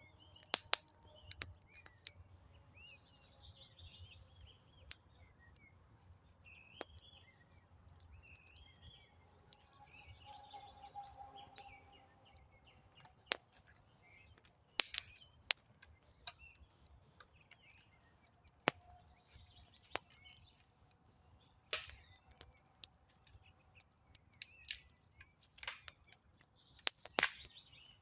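Wood campfire crackling, with irregular sharp pops scattered throughout. Small birds chirp and sing in the background.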